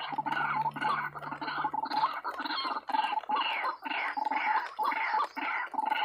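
White-breasted waterhen (ruak-ruak) calling, a fast run of repeated croaking notes at about two to three a second. A low steady hum runs underneath and stops about two seconds in.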